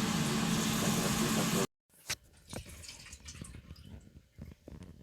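A steady, dense hiss over a low hum, which cuts off suddenly about a second and a half in. After a moment of silence come faint, scattered clicks and knocks.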